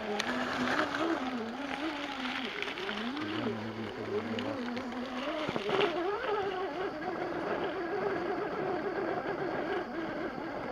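Electric motor and gear whine of a 1/10-scale RC rock crawler, its pitch rising and falling with the throttle as it crawls, with a single sharp knock about five and a half seconds in.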